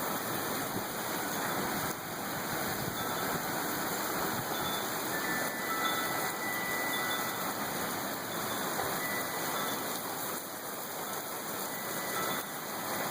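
Heavy rain falling in a thunderstorm's wind, a steady rushing hiss with no break.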